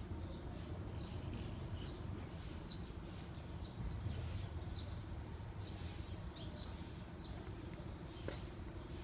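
Small birds chirping, short high chirps a couple of times a second, over a steady low background rumble.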